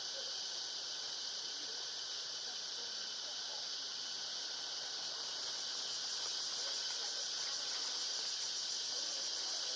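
Steady high-pitched insect chorus, with a few faint short calls underneath.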